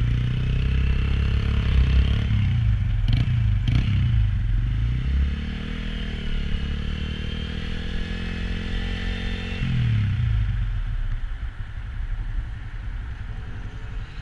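Honda Grom's small single-cylinder engine pulling away and accelerating through the gears, its pitch climbing and dropping at each shift, then backing off about ten seconds in to run more quietly.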